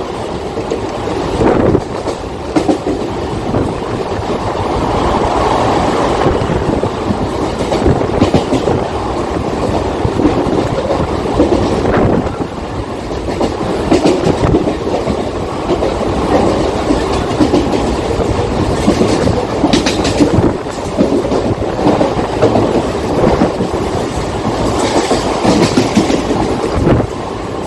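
Mumbai suburban local electric train running at speed: a steady rumble with irregular sharp knocks from the wheels on the track.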